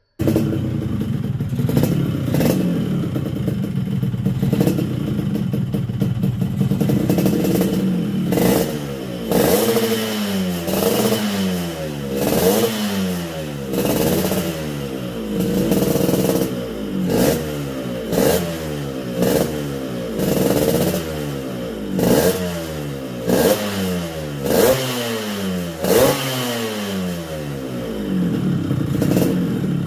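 Yamaha RX-King's single-cylinder two-stroke engine through a bamboo-style racing muffler, idling and then blipped over and over, each rev climbing and dropping back, before settling to idle near the end.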